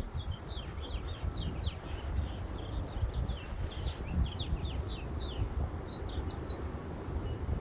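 Wind buffeting the microphone in strong gusts, with a small bird giving a rapid series of short, high chirps that stops near the end.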